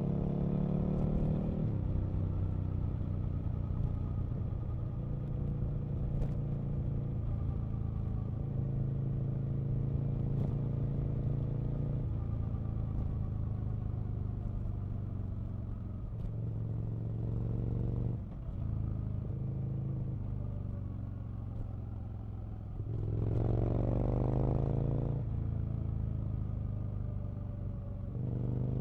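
Aprilia RSV Mille's 998 cc 60-degree V-twin engine under way on a ride, its note climbing as it accelerates near the start, holding mostly steady, easing off about two-thirds of the way through, then revving up hard for a couple of seconds before settling again.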